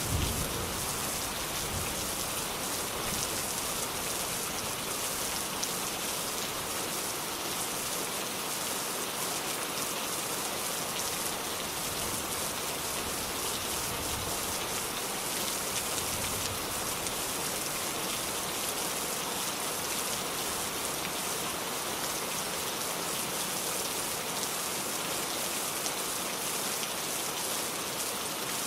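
Steady rain falling and pattering on a surface, an even hiss of many fine drops.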